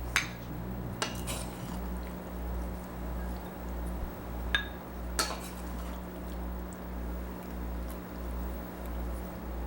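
A serving spoon clinking against bowls a handful of times as salad is spooned from a mixing bowl into a small serving bowl, with a steady low hum underneath.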